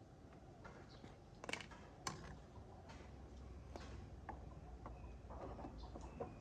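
Faint, scattered light clicks and taps, a few seconds apart, over a low steady hum.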